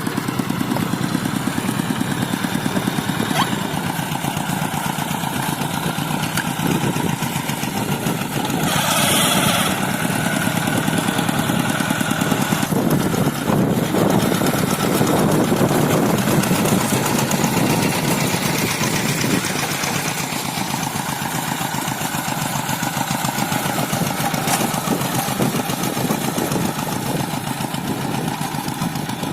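Two-wheel hand tractor's single-cylinder diesel engine running steadily with rapid firing pulses, with a brief burst of noise about nine seconds in.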